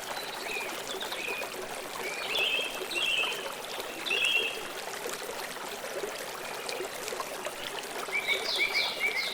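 Flowing stream water with a steady rush, and a bird calling in short bursts of repeated chirps, several times, with a denser run of chirps near the end.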